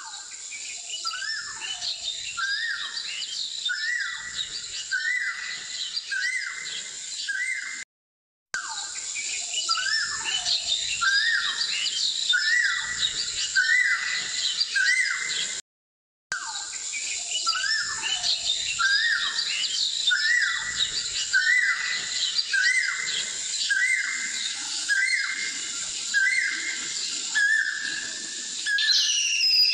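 Birds calling: a falling chirp repeated about once a second over a steady high-pitched tone, cut off twice by brief silences.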